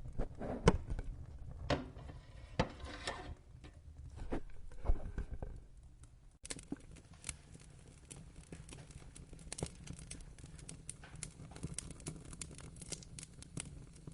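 Wood fire in a fireplace crackling, with a low rumble of flames under it. Several loud pops come in the first few seconds; about six seconds in the sound cuts abruptly to a denser, lighter crackle.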